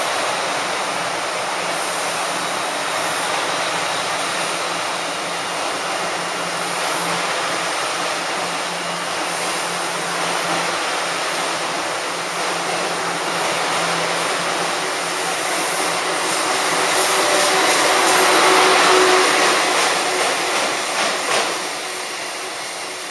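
Blue passenger coaches of a locomotive-hauled train rolling slowly past a station platform, a steady rumble of wheels on rail. It swells as the red electric locomotive at the rear goes by, with a few sharp clicks over the rail joints, then dies away as the end of the train passes.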